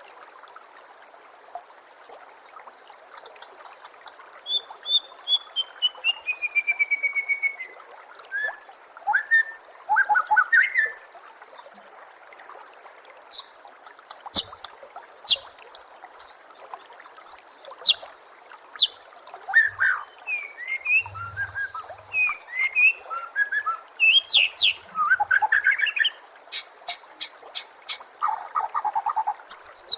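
White-rumped shama (murai batu) song: varied phrases of clear whistles, sliding notes, fast trills and rapid runs of sharp high chips, over a steady trickle of running water.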